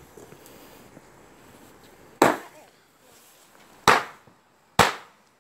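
Fireworks going off close by: three sharp bangs, the first about two seconds in and the next two quicker, each dying away in a short echo.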